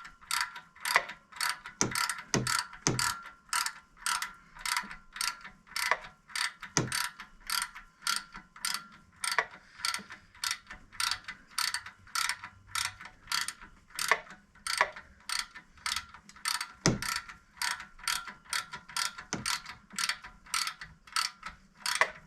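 Hand ratchet clicking in steady strokes, a little over two clicks a second, as it runs a compressor mounting bolt in.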